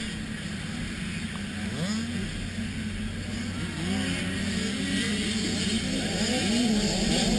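Several motocross dirt bike engines revving, their pitch rising and falling with throttle and gear changes, slowly getting louder.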